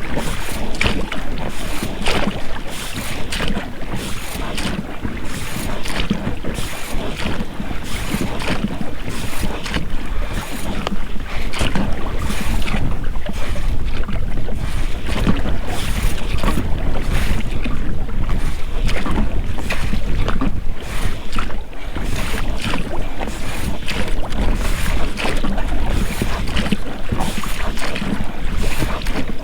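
Oars of an inflatable rowing boat splashing into the water stroke after stroke, with rubber rowlocks creaking and knocking. Wind rumbles on the microphone throughout.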